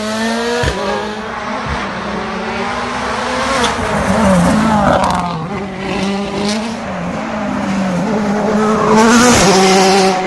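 Rally car's 1.6-litre turbocharged four-cylinder engine running at high revs, the pitch bending with gear changes, with a few sharp pops. Tyre noise swells to a loud hiss near the end.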